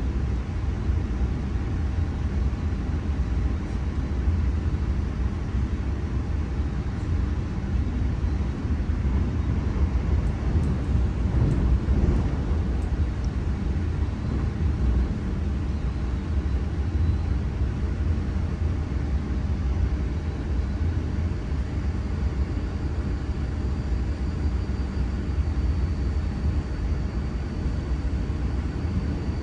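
Electric train running with a steady low rumble. A faint high whine joins in about two-thirds of the way through.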